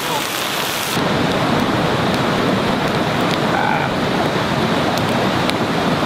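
Sausages sizzling in a cast iron skillet over coals. About a second in, the sound changes to a steadier, duller rush with a few sharp crackles from a small wood fire burning in a pit dug into the ground.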